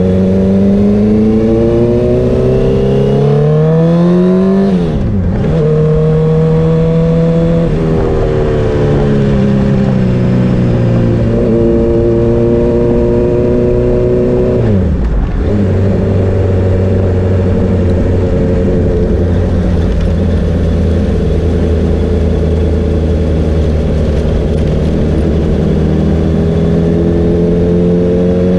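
Honda CBR650R's inline-four engine pulling on the road: the revs climb, drop sharply at an upshift about five seconds in, climb again, and drop at a second upshift about fifteen seconds in. After that the engine holds a steady cruising note.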